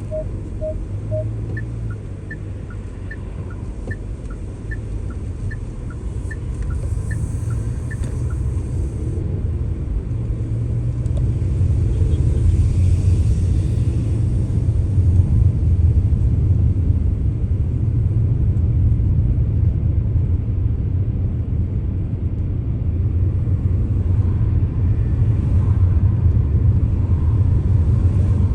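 Car driving, a steady low rumble of engine and road that grows louder after about ten seconds. In the first eight seconds a run of short high beeps in two alternating pitches sounds about twice a second.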